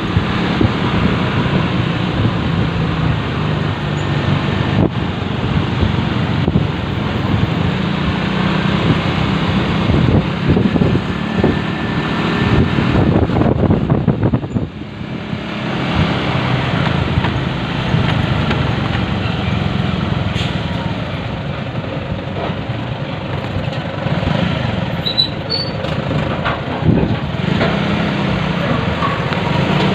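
Motorcycle engine running on the move, its pitch rising and falling with speed; it eases off briefly about halfway through, then picks up again.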